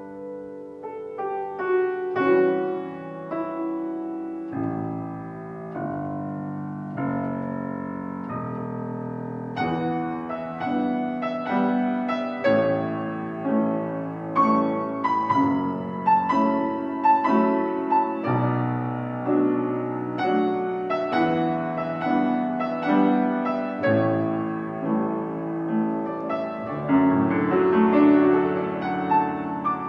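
Solo piano playing a gentle student piece: a melody of struck notes over lower chords, going on without a break.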